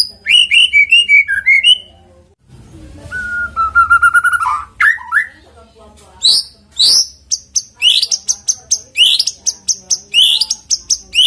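White-rumped shama singing a varied, lively song: quick chirps and sweeping whistles, a fast trill about a third of the way through, then a run of rapid repeated high notes.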